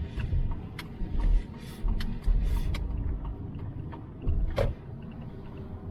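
Toyota Sienna minivan driving, heard from inside the cabin: a low rumble of road and engine noise that swells and dips, with scattered knocks and clicks and one sharper knock about three-quarters of the way through.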